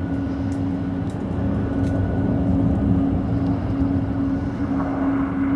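Jet airliner engines running with a steady low rumble, along with a constant hum.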